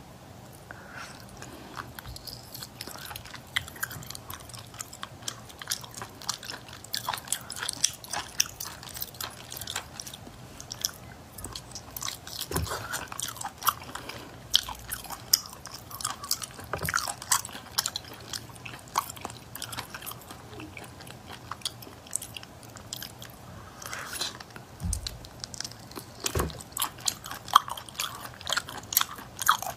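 Close-miked chewing and biting of octopus, a steady run of short mouth clicks and smacks with a few louder bites.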